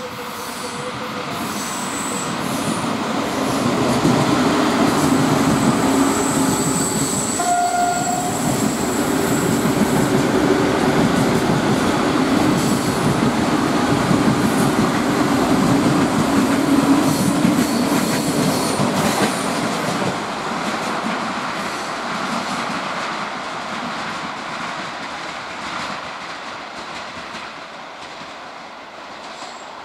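A train passing by: its rumble builds over the first few seconds, stays loud for about fifteen seconds, then slowly fades. A brief horn blast sounds about eight seconds in.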